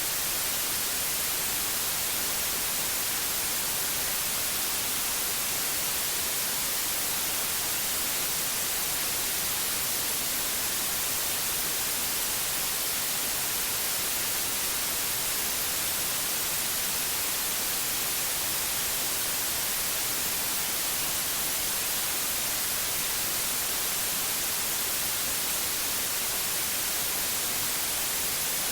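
Steady synthetic white noise: an even, unchanging hiss, brightest in the highs.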